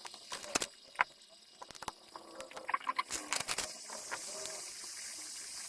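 Repair tools clicking and tapping sharply and irregularly on an iPhone 6S logic board, with a busier run of taps a little past halfway. A steady high hiss comes in just after halfway.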